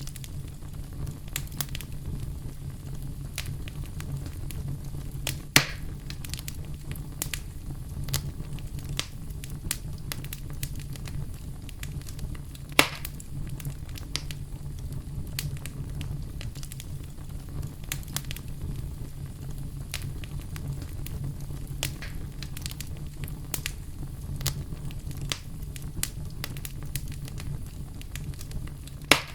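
Campfire burning: a steady low rumble with constant crackling. Louder single pops come about six and thirteen seconds in and again near the end.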